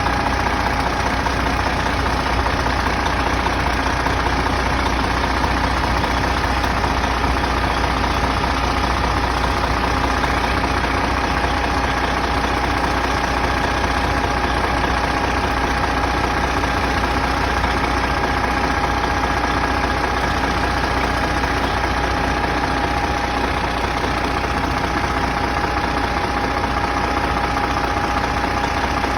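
Engine running steadily at low idle, with a steady whine running through it.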